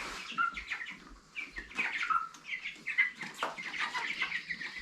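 A flock of three-week-old Cornish cross meat chicks peeping, with many short, high chirps overlapping.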